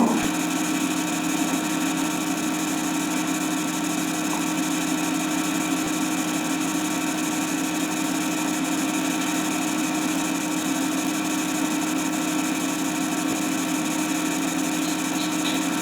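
A steady, unchanging hum made of several held tones over a hiss, like a running motor or electrical hum on an old film soundtrack.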